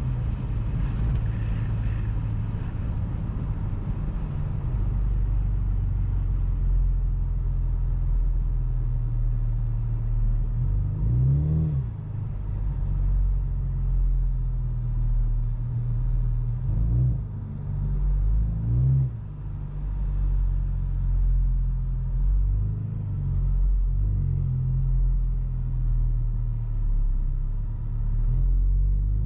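Ford Mustang EcoBoost's turbocharged four-cylinder engine with a full aftermarket exhaust, heard from inside the closed cabin while driving. It runs at a steady low drone, with the pitch briefly rising and falling a few times around the middle as the revs change.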